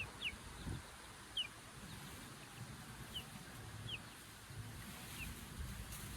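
Bird chirping: about six short, high chirps, each falling in pitch, scattered across a few seconds over a low outdoor rumble. A soft low thump comes about a second in.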